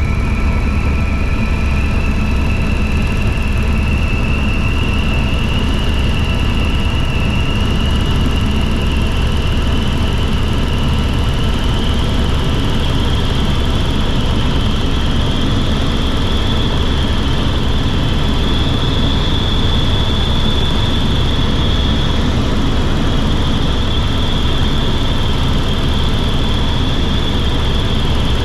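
Helicopter running: a steady, heavy low drone from the rotor and engine, with a high whine that slowly rises in pitch through the first half and then holds.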